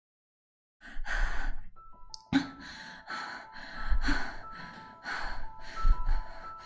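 A series of heavy breaths or gasps, one about every second, begins just under a second in. Soft music with held mallet-instrument tones, like a marimba or glockenspiel, comes in about two seconds in.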